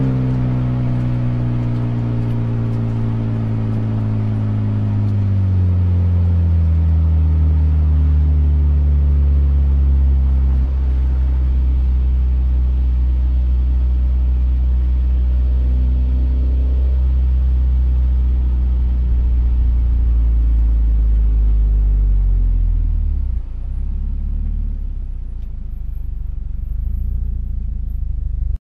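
Toyota GT86's flat-four engine heard from inside the cabin, its note falling as the car slows, then running steadily at low revs. About twenty-three seconds in the note drops again as the car rolls slowly toward a stop.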